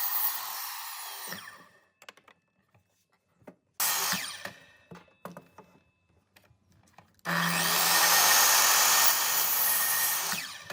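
Electric power tool cutting wood in bursts. It winds down over the first couple of seconds, runs briefly about four seconds in, then runs for about three seconds from about seven seconds in before winding down again.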